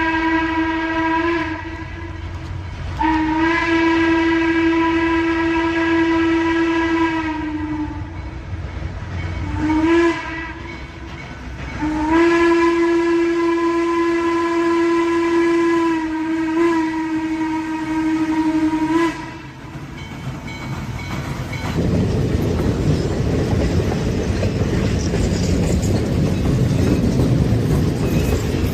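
A train's horn sounds one steady note in several blasts: a long one, a short one, then another long one. Under it is the rumble of the train. For the last several seconds the horn is silent and only the train is heard running, a steady louder rumble.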